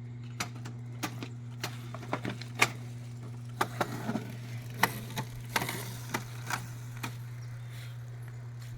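Irregular sharp clicks and light knocks over a steady low hum, busiest around the middle. The clicks are the rattle of a Razor MX350 electric dirt bike being ridden or handled.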